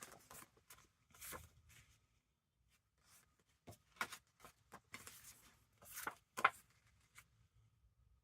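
Paper rustling and light taps as journal papers and card pieces are handled and shifted. It comes in short, scattered bursts, the loudest about six seconds in.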